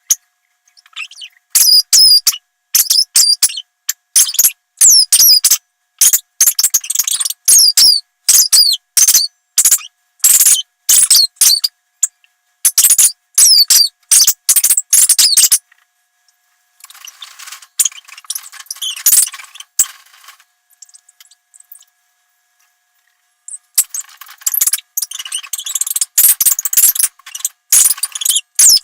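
A dog's squeaky toy squeaking over and over, short high squeaks about twice a second, as the dog chews on it. A rougher rustling noise fills a pause around the middle.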